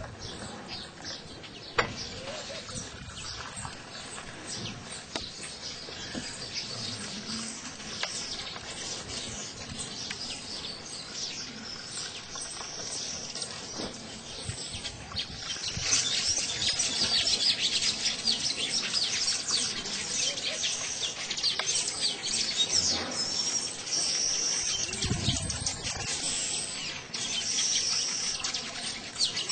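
Many small birds chirping busily, getting louder about halfway through, with one sharp click about two seconds in.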